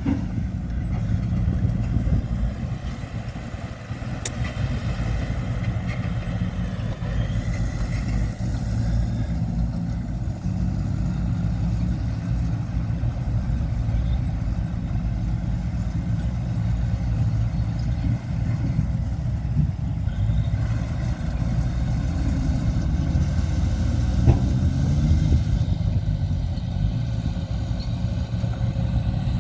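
Heavy earthmoving machine's diesel engine running steadily with a low drone, its pitch shifting a little now and then, with a short knock about 24 seconds in.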